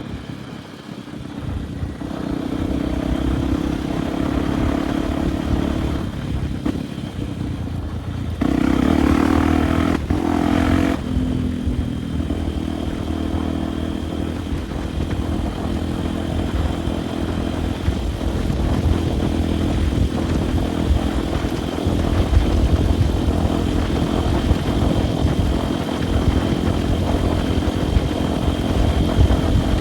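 Off-road motorcycle engine running while riding. It revs up harder for a couple of seconds about eight seconds in, then settles back to a steady pull.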